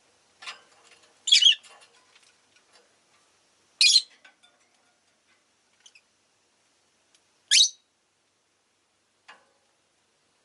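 Rosy-faced lovebirds giving short, shrill chirps: three loud calls spaced a few seconds apart, the last one sweeping upward, with a couple of fainter chirps between them.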